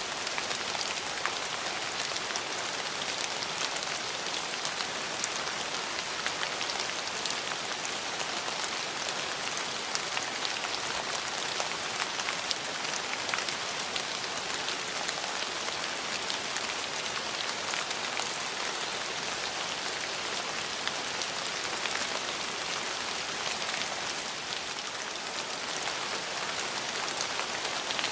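Steady rain falling on hard surfaces, a dense even hiss with many individual drops ticking through it.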